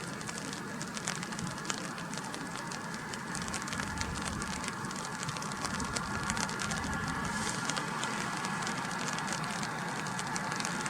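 Steady rain falling, with many fine drop ticks in a constant hiss and a faint low rumble beneath.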